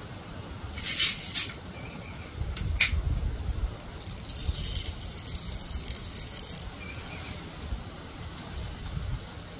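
Wind rumbling on the microphone, broken by a couple of sharp clicks from the air rifle about a second in and a steady hiss lasting about two and a half seconds in the middle.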